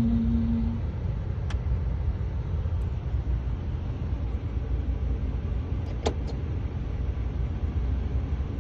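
Car engine running at idle, a steady low rumble heard from inside the cabin, with two light clicks.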